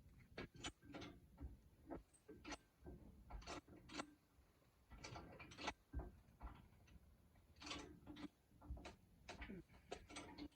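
Faint, irregular clicks and knocks from hands-on work, coming every half second or so and unevenly spaced, over a faint low rumble.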